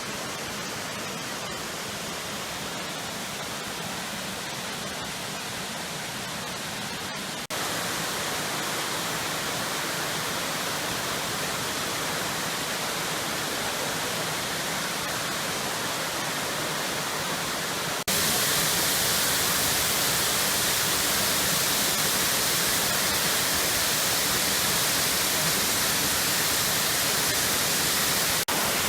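Waterfall water rushing in a steady, hissy roar, heard in three cut-together takes that each get louder, with sudden jumps about 7 and 18 seconds in.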